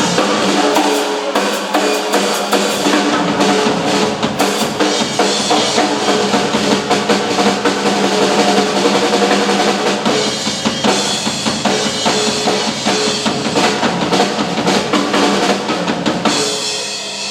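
Two drummers playing drum kits together live: dense, fast strokes on snare, toms and cymbals over the bass drum, with rolls, easing off briefly near the end.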